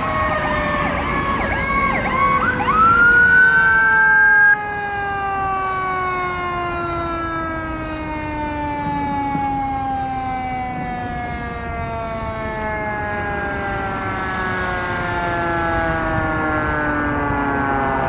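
Fire engine sirens. An electronic siren yelps and wails for the first few seconds, with a rising tone that cuts off suddenly about four and a half seconds in. Beneath it, a mechanical siren winds slowly down in pitch through the rest.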